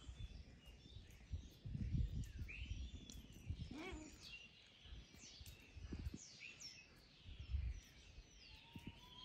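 Small birds chirping and twittering with many short calls, some sliding down in pitch, over a few brief low rumbles that are the loudest sounds.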